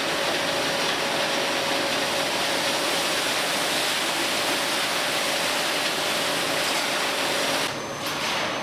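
Steady hissing spray that cuts off sharply near the end, with a faint steady hum under it.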